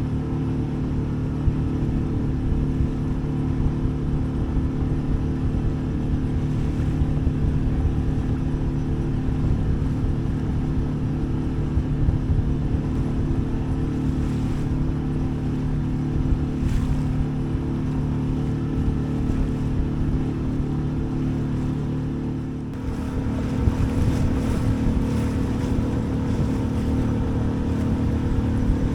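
Small sailboat's engine running steadily under way. About three-quarters of the way through, the sound changes: wind buffets the microphone, with the engine and water noise underneath.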